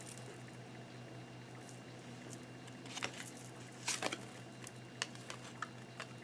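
Tarot cards being handled: a scattering of faint, light clicks and taps, more of them from about three seconds in.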